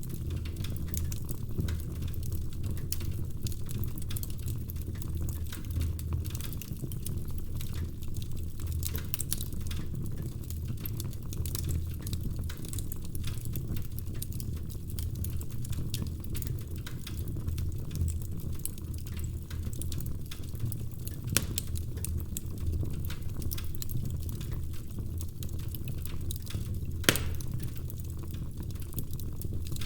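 Wood fire burning in a fireplace: a steady low rumble of flames with scattered crackles and pops from the logs, one louder pop near the end.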